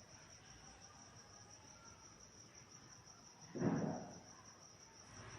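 A faint, high, steady trill like a cricket's over low background hiss, with one brief louder noise about three and a half seconds in.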